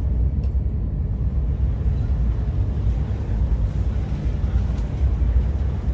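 Steady low rumble of the Whoosh high-speed train running, heard inside the passenger car.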